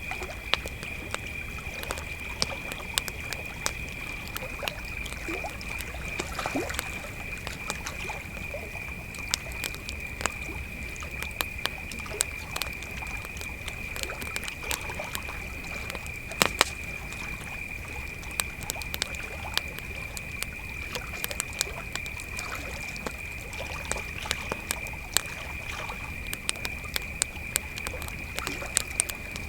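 Crickets trilling steadily at one high pitch, over a campfire crackling with irregular sharp pops, the loudest pop about sixteen seconds in.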